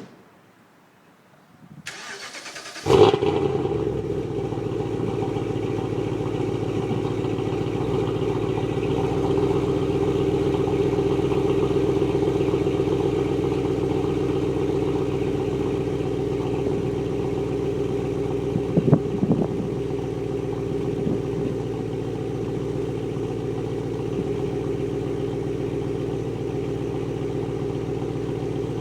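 BMW X5 4.8is's 4.8-litre V8 starting through a Dinan free-flow exhaust, with the resonator replaced by a Magnaflow X-pipe. A click, a second of starter cranking, a brief loud flare as it catches about three seconds in, then it settles into a steady idle. A couple of brief knocks come about 19 seconds in.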